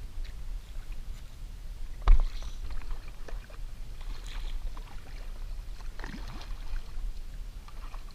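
Scattered knocks and clicks, with one sharp knock about two seconds in, over a low steady rumble.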